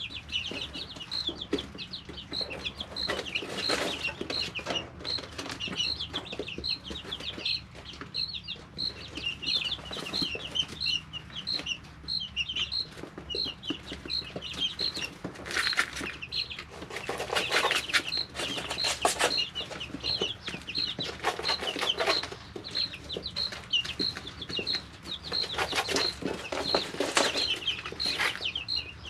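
Three-week-old chicks peeping in a brooder: a steady run of short, high peeps, about two a second. Several times in the second half there are louder rustling bursts from the chicks moving about.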